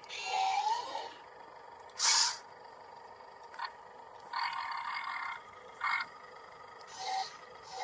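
Small remote-controlled excavator's electric motors and gears whirring in short bursts that start and stop, with scraping, as the machine struggles and fails to dig into grass. The loudest burst comes about two seconds in.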